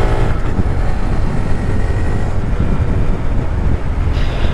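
Honda Grom's single-cylinder engine running steadily at road speed, under heavy wind rumble on a helmet chin-mounted camera.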